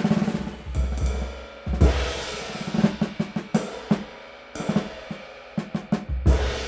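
Hand-made 19-inch PGB crash cymbal (1457 g) played on a drum kit. It crashes together with the bass drum about two seconds in and again near the end, each time ringing out and slowly fading. Snare and drum hits fall between the crashes, with a quick roll of hits at the start.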